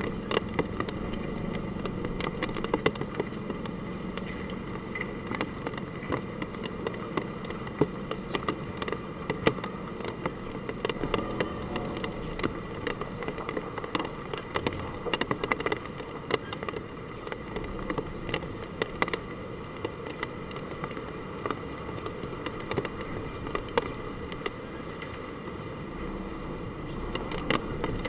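Heavy typhoon rain falling steadily, with a dense stream of sharp drop hits on hard surfaces.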